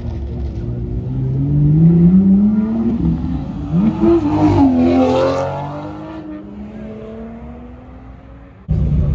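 Toyota Supra sports car accelerating hard away from the curb, its engine pitch climbing, then a gear shift and a second sharp climb as it passes close. The engine fades as it drives off, and the sound cuts off suddenly near the end.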